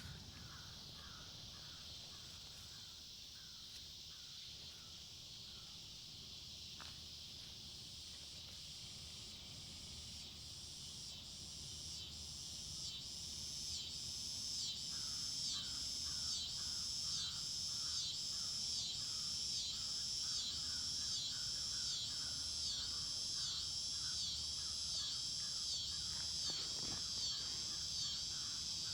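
Insects buzzing in a high, steady chorus that pulses in a regular rhythm, a little faster than once a second, growing louder partway through. Fainter, lower chirps repeat alongside.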